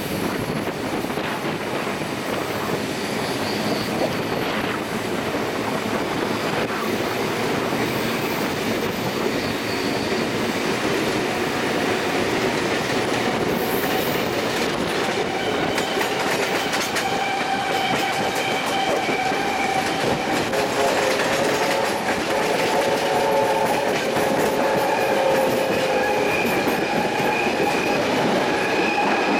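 Heritage train carriages running on the rails, heard from an open carriage window: a steady rumble and clatter of wheels on track. From about halfway through, high steady wheel squeal rides over it as the train rounds a curve.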